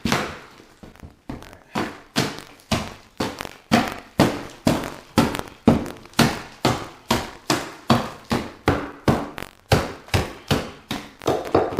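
Repeated heavy blows on a wooden subfloor, about two or three a second, as it is broken open to find a floor joist.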